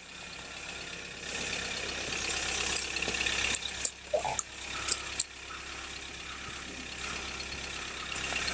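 Toyota RAV4 engine idling while snow is cleared off the car: a steady low hum under a hissing scrape, with several sharp knocks about three to five seconds in.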